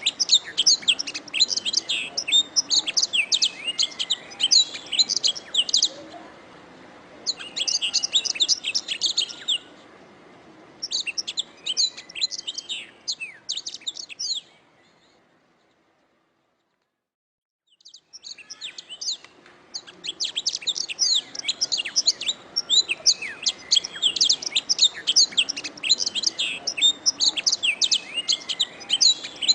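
Domestic canary singing long, fast runs of high chirps and trills in bouts, with short pauses and about three seconds of silence midway before the song resumes.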